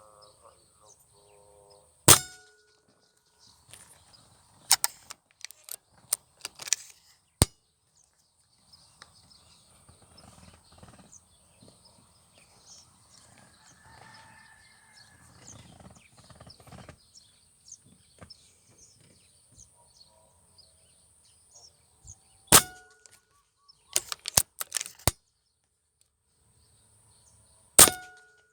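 Sharp metallic clicks, three of them loud with a brief ringing tone, about two seconds in, past the middle and near the end, with lighter clicks in between, over a steady high-pitched drone.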